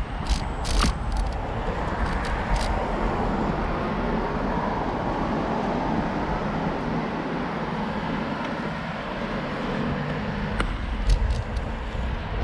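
Steady road traffic noise with low wind rumble on the microphone while riding, and a few sharp clicks near the start and again near the end.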